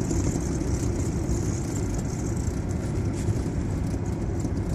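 Jeep Cherokee running at idle with the brake pedal held down: a steady low rumble with a faint high hiss. The owner is trying to trace a strange scratching noise from the vehicle.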